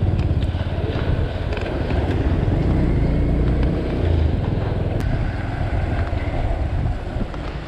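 Motorcycle riding: a steady low engine rumble mixed with wind buffeting the microphone.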